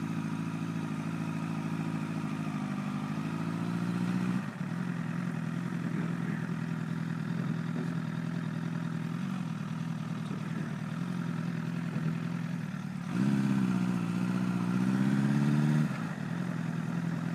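Honda CBR1000RR inline-four engine running at low riding speed: on the throttle for about the first four seconds, then easing to a steady lower note, and opened up again, louder and higher, for about three seconds near the end.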